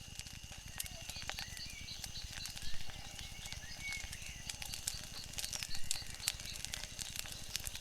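Wood fire crackling, with frequent sharp pops and snaps over a low steady rumble.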